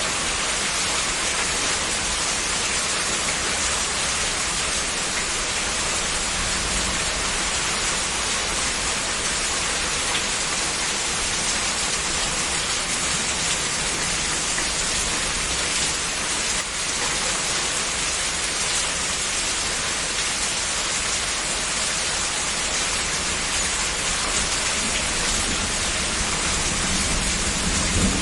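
Heavy rain falling steadily in a dense, even hiss, an edited and layered rain ambience, with a brief dip around the middle.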